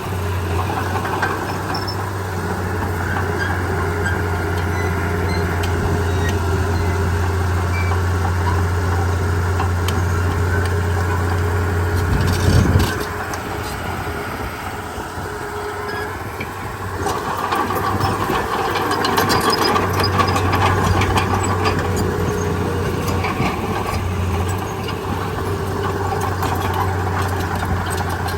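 Heavy diesel earthmoving machinery running steadily with a low engine hum, with one short loud clank about twelve seconds in. The engine gets louder again from about seventeen seconds.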